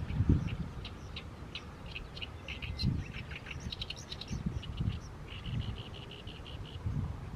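Oriental reed warbler singing its harsh, chattering song of short grating notes, with a run of quick, even repeated notes a little past the middle. Low rumbles sound underneath.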